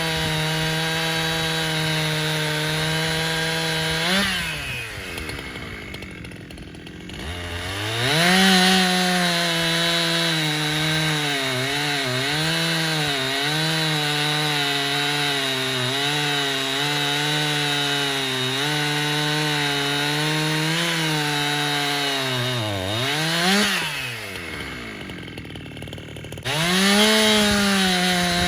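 Husqvarna 372XP kit saw, a two-stroke chainsaw fitted with a modified muffler, running at wide-open throttle with its pitch wavering. Twice, about four and twenty-three seconds in, it drops to idle, and each time it is snapped back up to full revs.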